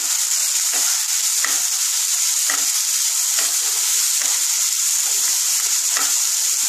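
Chopped onion, tomato, ginger and garlic sizzling in oil in a non-stick kadai, a steady hiss. A wooden spatula stirring them scrapes and knocks against the pan about once a second.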